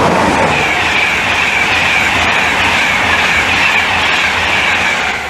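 London North Eastern Railway express train passing through the station without stopping: a loud, steady rush of wheels on rail that fades near the end.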